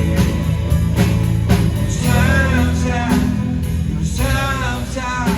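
Live rock band playing a song: electric guitar, bass and drum kit with a steady beat, and a wavering lead line of singing or guitar entering about two seconds in.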